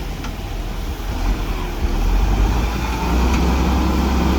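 Heavy diesel engine of an earthmoving machine running with a deep rumble, getting louder from about halfway through.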